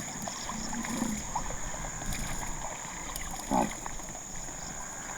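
Cape buffalo wading through a shallow water hole, water sloshing and splashing, with a few short low calls; the loudest call comes about three and a half seconds in.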